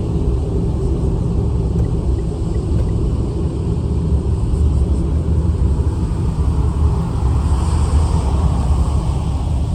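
Strong wind buffeting the microphone: a loud, rough low rumble, with more hiss swelling about eight seconds in.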